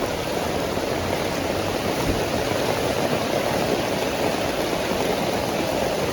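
Heavy rain pouring steadily onto an umbrella overhead, a dense, even hiss with no breaks.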